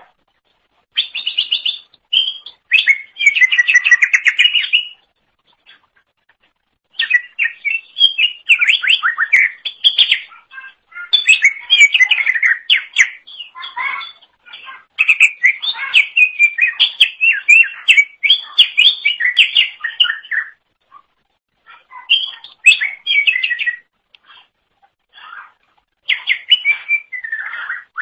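Cucak ijo (greater green leafbird) singing in fast, varied runs of chirps and whistles, in several bursts of song a few seconds long with short pauses between.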